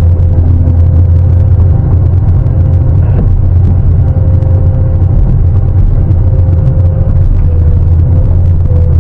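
Diesel engine of heavy mining equipment running steadily with a deep low rumble and a faint whine that shifts slightly in pitch. A brief knock comes about three seconds in.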